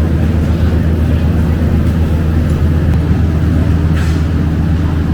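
Steady low drone of a running vehicle engine.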